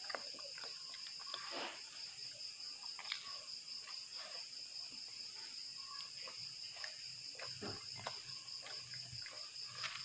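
Close-up chewing and mouth sounds with small scattered clicks, over a steady, pulsing high trill of night insects.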